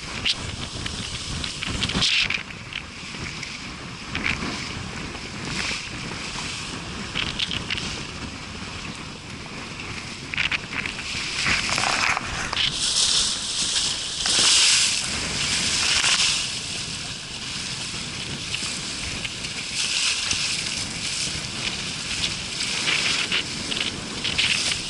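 Wind buffeting the microphone over the steady wash and slosh of choppy water along a sailboat's hull, with several louder surges of splash and spray, the biggest about halfway through.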